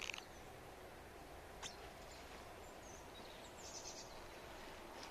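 Faint outdoor ambience: a steady low hiss with a few short, high bird chirps scattered through it.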